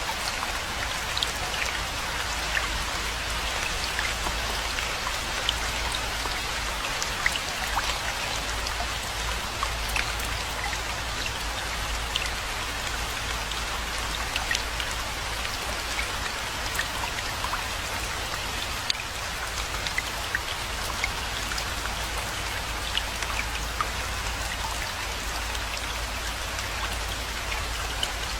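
Steady rainfall: an even hiss of rain with scattered sharp drop ticks, over a constant low rumble.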